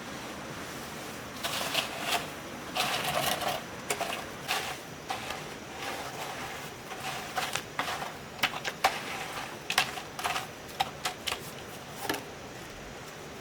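A hand tool scraping and tapping on cement: irregular scraping strokes in the first half, then a run of quick sharp taps and scrapes.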